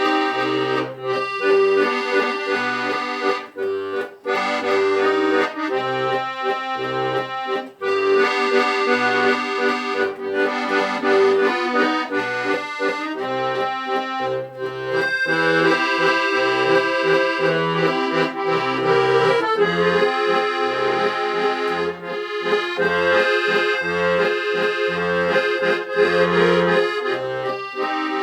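Accordion music: a melody of held chords over a rhythmic bass accompaniment.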